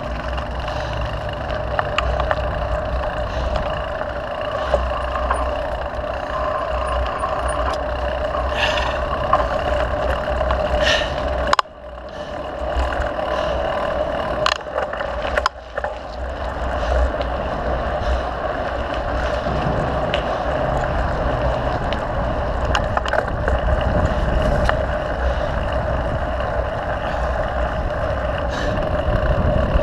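Mountain bike ridden along a dirt trail: continuous rumble of tyres and wind with scattered rattles and knocks from the bike over bumps. The sound drops out briefly twice, about a third and a half of the way through.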